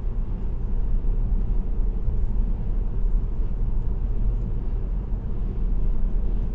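Steady low road rumble of a car cruising at highway speed, tyre and engine noise picked up by a dashcam.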